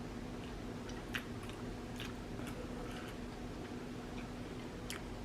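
Mouth sounds of eating: a handful of short, sharp lip smacks and wet clicks from chewing shrimp boil, spread out with pauses between them, over a steady low hum.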